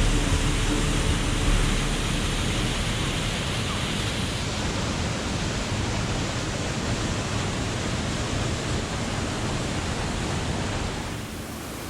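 Waterfall's rushing water: a steady, even hiss. The sound changes slightly about four seconds in and gets a little quieter near the end.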